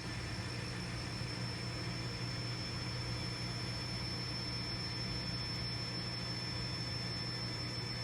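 N scale model train running, a steady, even hum with a thin high whine above it.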